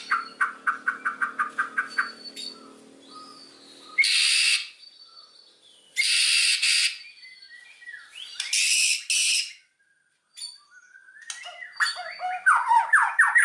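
White-rumped shama (murai batu) singing: a fast run of repeated notes, then three loud harsh bursts of about a second each, then quick varied whistled phrases near the end.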